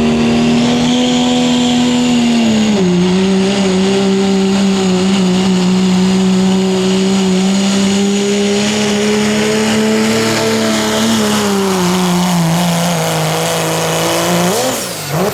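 Turbo-diesel pickup engine at full throttle pulling a weight sled, held at high revs with a steady pitch. The pitch sags twice as the sled's load builds. Near the end the revs flick up and drop away as the pull ends.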